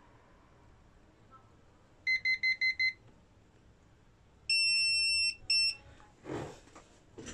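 Electronic beeper: five quick beeps, then a long, higher-pitched beep and a short one, followed by two soft thumps near the end.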